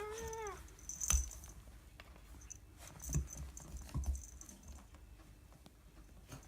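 A cat gives one short meow that rises and falls. It is followed by a sharp click, a couple of dull thumps and light ticking clicks as the irritated cat moves about.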